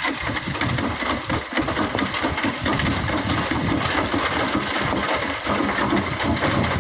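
Excavator loading sand and gravel: a steady rushing hiss full of small knocks and rattles as the material pours and slides, over a running diesel engine.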